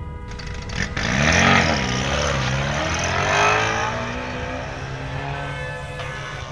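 Car engine revving hard, its pitch dipping and then climbing in repeated sweeps, loudest about a second and a half in and again a couple of seconds later, then easing off.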